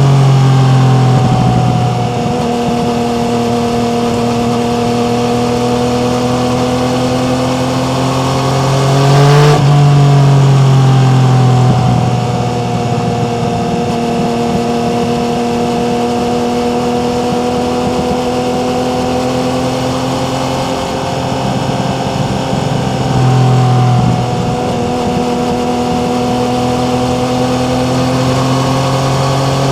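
Yamaha MT-09 three-cylinder motorcycle engine running under way at a fairly steady cruising speed, its pitch drifting slowly up and down. About nine seconds in it climbs sharply in pitch and then drops, and it gets louder for a couple of seconds.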